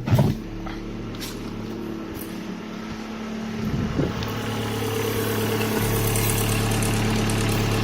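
Opel Astra G's 1.6-litre Z16XE four-cylinder petrol engine running at a steady idle, with a sharp knock right at the start. About four seconds in it gets louder and brighter, but its pitch does not change.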